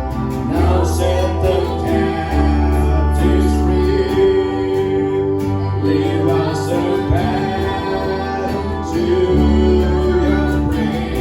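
Worship band playing a slow Christian worship song, with sustained chords over a deep held bass and singing voices.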